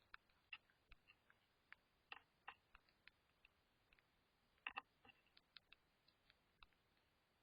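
Birds pecking at seed: faint, irregular clicks and taps, a few a second, with a louder quick double tap about two-thirds of the way through.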